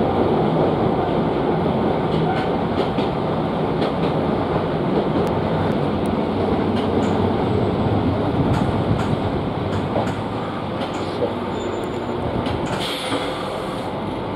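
Running noise heard inside a Hokusei Line narrow-gauge train car, with wheels clicking over rail joints. The rumble eases about ten seconds in as the train slows into a station, and there is a short high hiss near the end.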